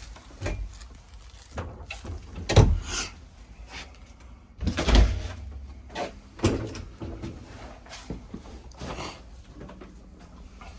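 Bathroom cupboard doors in a travel trailer being opened and shut: several knocks and clatters, the loudest about two and a half and five seconds in.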